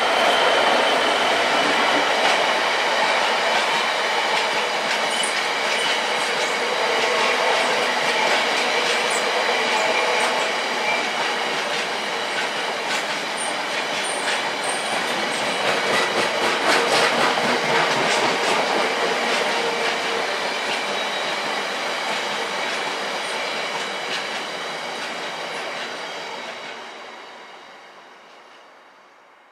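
A long freight train of open box wagons hauled by a Class 66 diesel locomotive rolls past. The wheels clatter rhythmically over the rail joints, with some high wheel squeal. The sound fades away over the last few seconds as the end of the train recedes.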